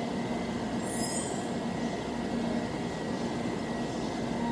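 Shinkansen train drawing into the platform and slowing to a stop: a steady low rumble with a thin steady whine, and a brief high brake squeal about a second in.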